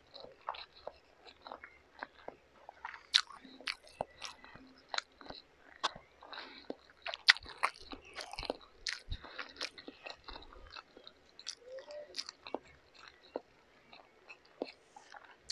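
Close-miked chewing of a mouthful of pancit canton instant noodles: a steady run of irregular, sharp mouth clicks.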